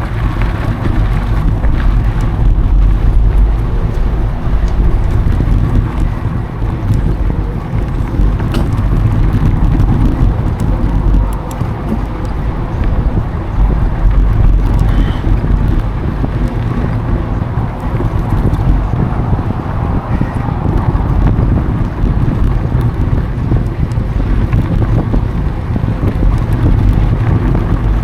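Wind buffeting an action camera's microphone while riding a mountain bike, a loud, steady low rumble with faint scattered ticks and clicks from the bike on the trail.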